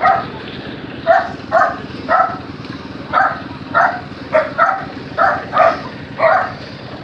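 A dog barking repeatedly, about eleven short barks at an uneven pace of roughly two a second, over a steady low background rumble.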